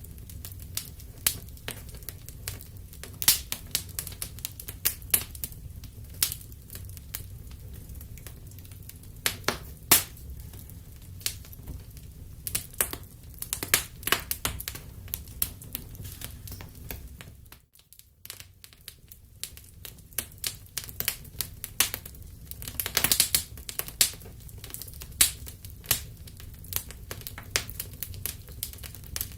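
Fireplace fire crackling: irregular sharp pops and snaps over a low steady rumble. The sound drops out for a moment a little past the middle.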